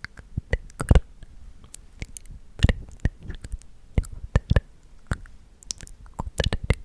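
Close-microphone ASMR mouth sounds: irregular wet clicks and smacks of lips and tongue, a few at a time with short gaps between.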